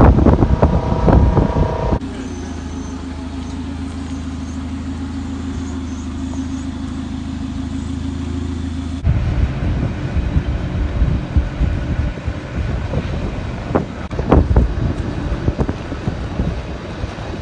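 Port machinery and wind in shots cut together. Rough wind buffeting on the microphone gives way about two seconds in to a steady engine hum, which cuts back to gusty wind noise with a few knocks about nine seconds in.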